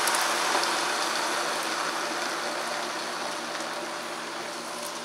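Cooked black beans and their liquid sizzling and bubbling in hot oil in a frying pan, just poured in over fried onion; the sizzle slowly dies down.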